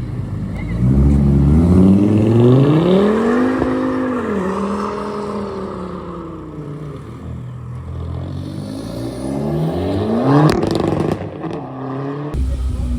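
A car engine revving up twice. Its pitch climbs for a few seconds, then falls away, and it climbs again to a sharp crack at the top of the second rev.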